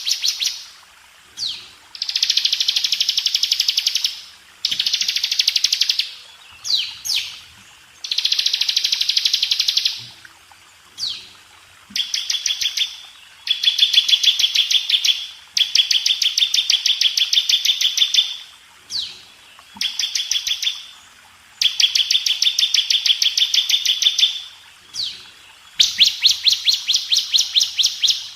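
Ciblek (bar-winged prinia) singing: very fast, tight, high trills in repeated bouts of one to three seconds, with short pauses holding a few quick downslurred notes.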